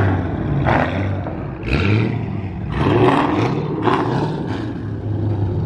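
A muscle car's engine idling with a deep, uneven rumble through its exhaust, with sharper bursts about once a second as the throttle is blipped.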